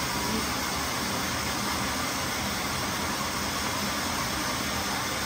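A train running, heard as a steady, even noise with no change in level.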